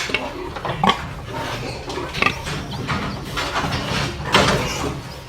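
Pig grunting: a few short, noisy grunts at irregular intervals, the loudest about four and a half seconds in.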